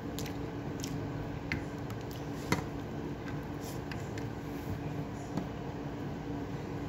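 Close-up wet chewing and mouth smacks of someone eating rice and meat by hand, with scattered small clicks, one sharper click about two and a half seconds in. A steady low hum sits underneath.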